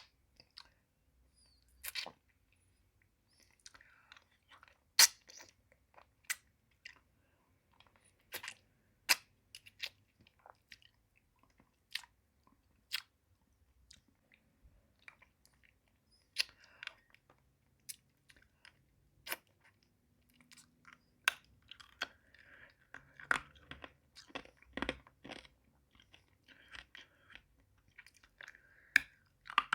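Close-miked mouth sounds of a hard pacifier-shaped lollipop being eaten: sharp, separate clicks and crunches of the candy against the teeth, growing denser and wetter in the second half.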